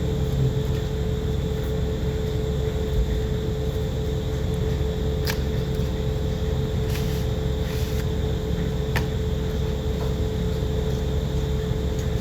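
A steady low mechanical hum with a constant tone, with a few light clicks about five, seven, eight and nine seconds in.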